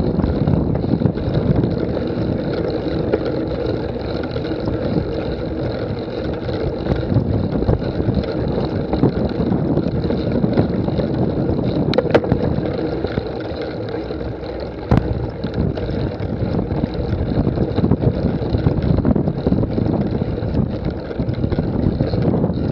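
Steady wind rush and rumble on the microphone, with two sharp knocks, one about halfway through and another about three seconds later.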